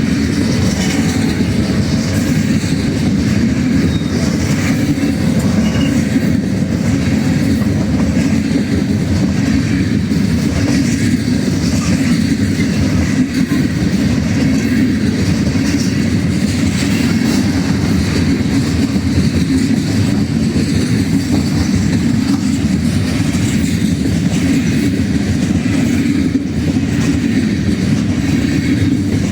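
Freight train passing at speed: a loud, steady, deep rumble of wagons rolling on the rails, with a faint clatter of wheels over the joints.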